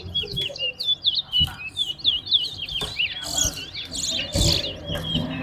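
Caged towa-towa seed finches singing in a song race, with quick, repeated chirping phrases that follow one another without a break. Each song is counted toward the race.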